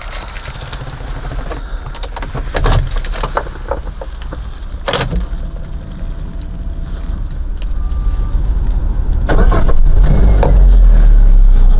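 2015 FAW Oley heard from the driver's seat: a run of clicks from the key and controls, then the engine cranks and catches about nine seconds in. It settles into a loud, steady idle.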